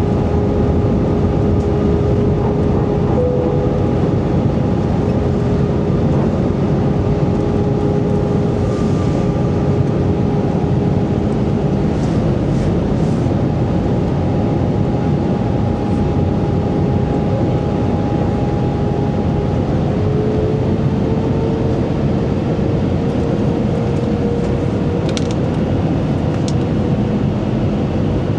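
Airbus A320 jet engines and airflow heard inside the cabin: a steady low rumble with several steady whining tones, one of which rises slightly in pitch about two-thirds of the way through as the engine power changes.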